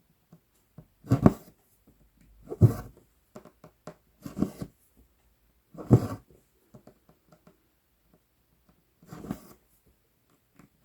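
Floss and a size 24 tapestry needle being pulled through 11-count Aida cloth, a short rasping swish with each stitch, five pulls at an uneven pace.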